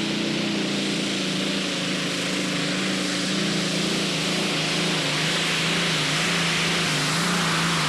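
Pulling tractor's engine running hard and steady at full throttle during a competition pull, its pitch sagging slowly as the run goes on.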